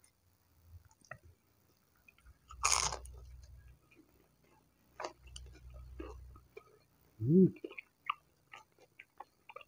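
Close-up eating sounds of crispy battered fried tempeh: a loud crunchy bite near three seconds in, then chewing with small wet clicks and smacks. A short hummed vocal sound about seven seconds in is the loudest moment.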